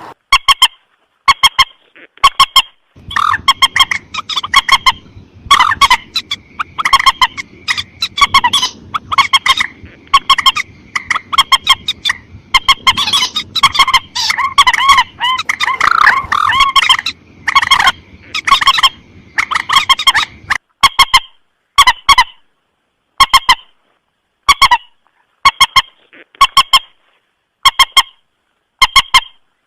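Mandar sawah (a rail) calling in a bird-lure recording: short, sharp, honking calls repeated in quick bursts. From about three seconds in to about twenty seconds, the calls come thick and overlapping over a low hiss, then thin out again to separate bursts about once a second.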